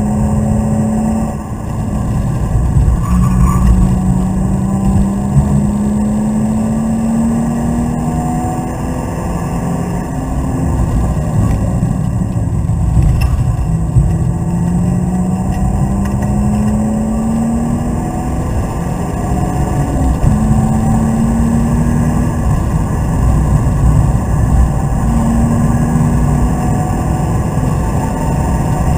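BMW Z3 coupe's straight-six engine under hard acceleration, heard from inside the cabin. Its pitch climbs steadily and drops back at each gear change or lift, about five times, over constant road and wind noise.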